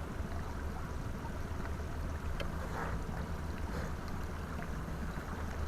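Steady low rumble of strong wind buffeting the microphone aboard a pontoon boat, with scattered faint ticks and knocks.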